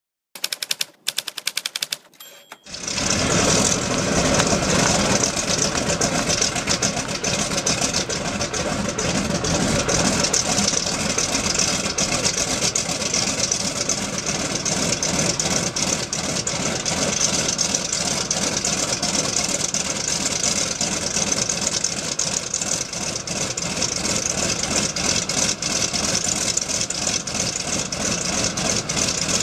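A WWII fighter's radial piston engine starting: a run of sharp pops and coughs for about two and a half seconds, then it catches and runs loud and steady with a fast, rough firing pulse.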